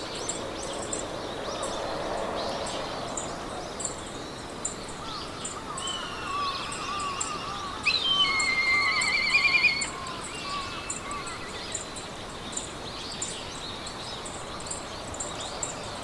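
Meadow ambience: several birds singing over a steady hiss of wind through grass, with a short high chirp repeating every half second or so. A loud warbling bird trill about eight seconds in is the loudest sound.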